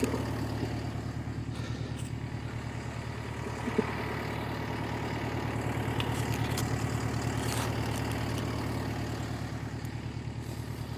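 Volvo skid steer's diesel engine running steadily with an even low throb, with one short knock about four seconds in.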